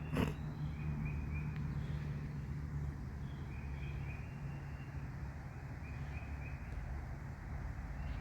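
Outdoor ambience with a small bird calling short high chirps in quick groups of three every couple of seconds, over a steady low hum. A single sharp knock comes just after the start.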